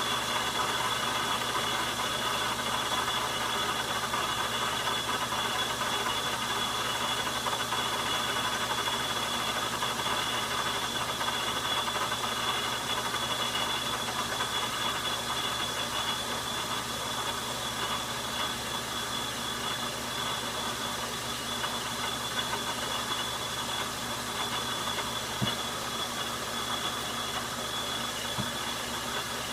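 Logan metal lathe running steadily while taking a turning cut on the outside diameter of a spindle nut blank. Its motor and gear noise carries a constant high tone, with two faint clicks near the end.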